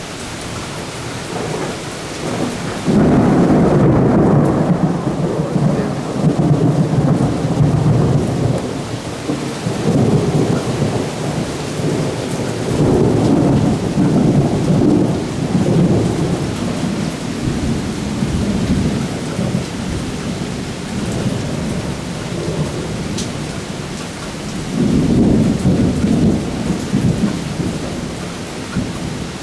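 Thunderstorm: steady heavy rain with rolling thunder that swells and fades several times, loudest about three seconds in and again near the end.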